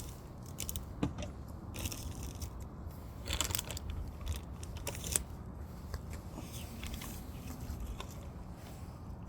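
Wood fire burning, crackling with scattered sharp pops and a few short bursts of snapping over a low steady rumble.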